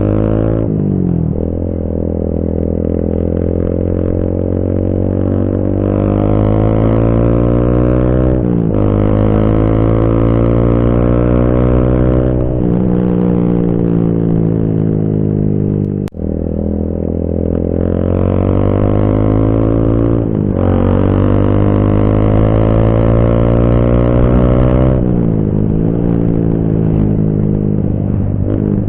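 Motorcycle engine running through an aftermarket Akrapovic-style racing exhaust, alternating a steady idle with revs that climb slowly and drop back, several times over. A brief dropout interrupts the sound about halfway through.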